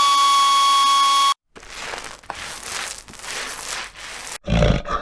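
Intro sound effects: a steady electronic tone that cuts off abruptly, then a crackly, hissing noise, then heavy deep booms near the end.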